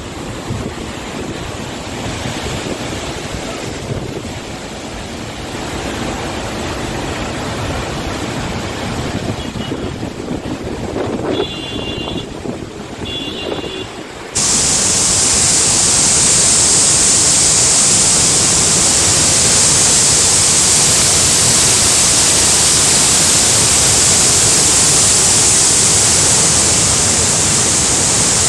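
Heavy rain and rushing water, a steady noisy wash. About halfway through it cuts abruptly to a much louder, hissier, unbroken rush. Two short high-pitched tones come shortly before the cut.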